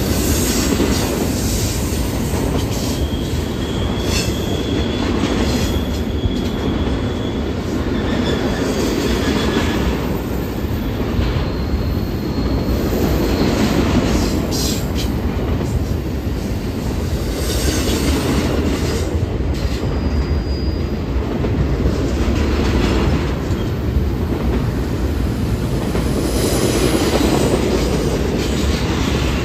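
Double-stack intermodal freight cars rolling steadily past, with a continuous rumble of steel wheels on the rail. Now and then a thin, high wheel squeal rises briefly over it.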